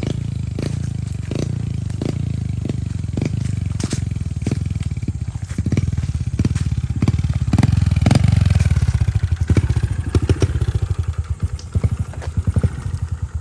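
Pit bike's small single-cylinder four-stroke engine running under load as it is ridden, with knocks and clatter over the engine. It grows louder about halfway through and eases off near the end.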